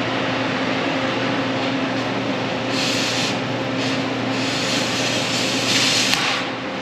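An engine running steadily with a low even hum, with louder bursts of high hissing and crackling over it about three seconds in and again for about two seconds near the end.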